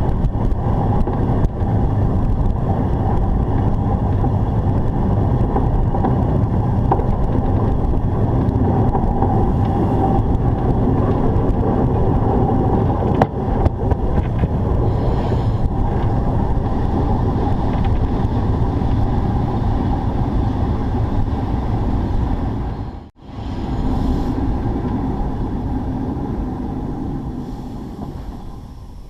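Steady rumble and wind noise from a narrow-gauge steam locomotive on the move, picked up by a camera mounted on the engine, with wind buffeting the microphone. It drops out briefly about two-thirds of the way through, then fades away near the end.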